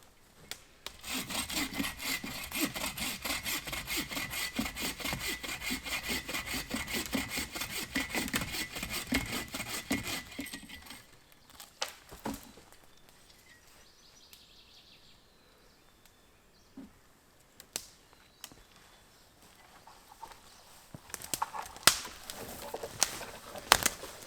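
Hand saw cutting through wood in a quick, steady run of strokes for about ten seconds, then stopping suddenly. A few sharp knocks and snaps follow near the end.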